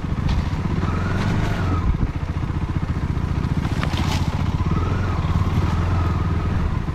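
Off-road motorcycle engine running on a rough trail, its pitch rising and falling with the throttle. A few sharp knocks and clatters from the bike over rough ground, the loudest about four seconds in.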